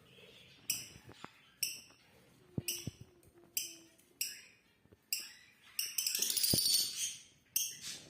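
Small birds chirping: short, high chirps about once a second, breaking into a quick run of chirping about six seconds in, with a few faint clicks.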